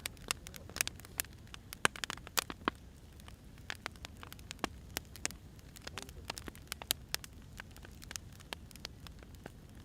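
Firewood burning and crackling: irregular sharp pops and snaps, a few a second, over a soft steady rumble of the fire.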